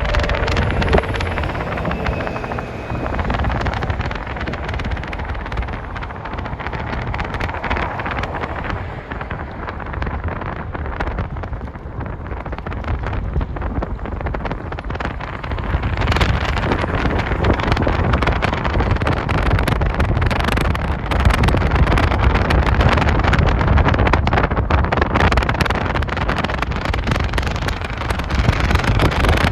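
Jet airliner engines during takeoff: a steady rumble and rushing noise that steps up and grows louder about halfway through.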